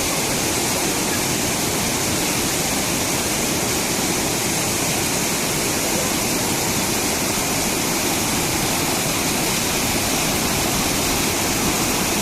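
Steady, loud rush of falling water, like a waterfall or fast stream.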